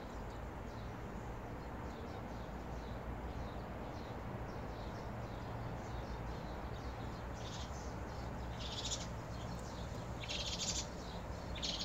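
Birds calling faintly over a steady low outdoor rumble, with a few short, high chirps in the latter half.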